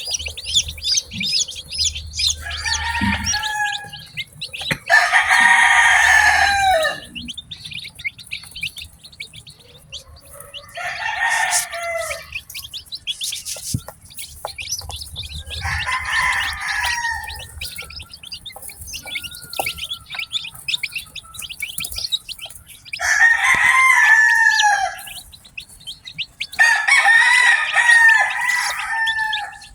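Newly hatched chicks peeping continuously and rapidly. Over the peeping, an adult chicken gives six loud, drawn-out calls of about one to two seconds each, spread across the stretch.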